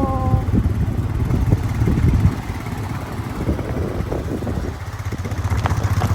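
Motorcycle engine running underway on a rough road, a steady low rumble with irregular knocks, easing slightly after about two seconds.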